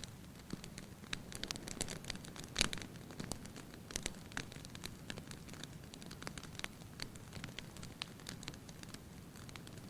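Fire crackling in a fireplace: irregular sharp pops and snaps over a soft low rumble of the flames, with one louder pop about two and a half seconds in.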